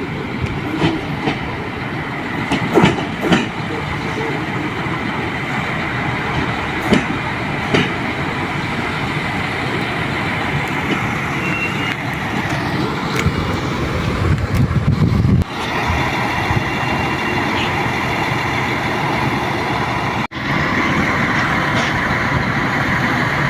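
RA2 diesel railbus running along the track: steady rolling noise with a few sharp wheel clicks over rail joints in the first several seconds.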